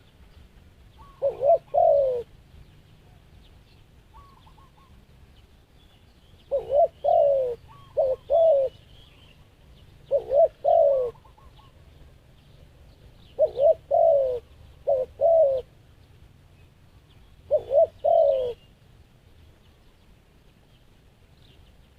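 Dove cooing in short phrases of two to four low notes, repeated about six times with pauses of a few seconds between. Faint high chirps of small birds sound in the background.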